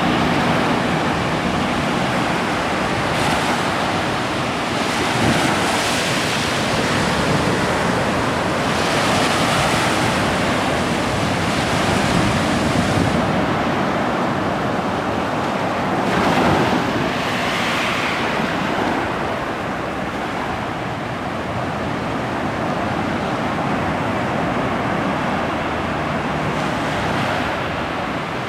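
Ocean surf breaking and washing onto the shore, surging every few seconds, with wind buffeting the microphone.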